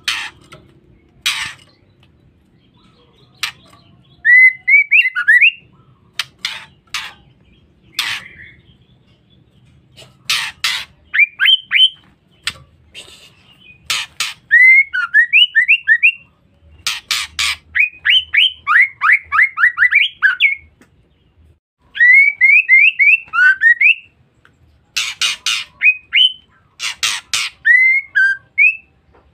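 Female white-rumped shama calling: quick runs of about four to eight short rising chirps, alternating with harsh single or doubled rasping calls, repeated with brief pauses.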